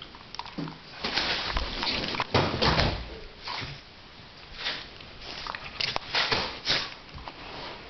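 A Jack Russell terrier and a pit bull mix scuffling as they play, with irregular bursts of scrabbling and bumping.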